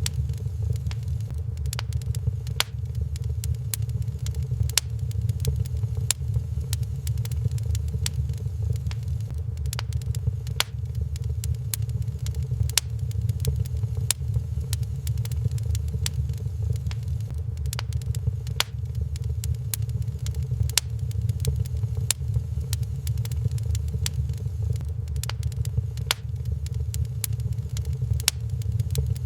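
Wood fire burning in a fireplace, crackling with frequent sharp pops and snaps at uneven intervals over a steady low rumble.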